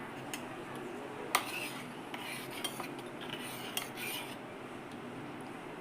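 Kitchen dishes and utensils clinking as they are handled. There is one sharp clink just over a second in, followed by a scatter of lighter clinks and rubbing.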